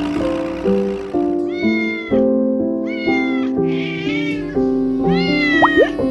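A kitten meowing four times, each meow about half a second long, over background music with a stepping melody.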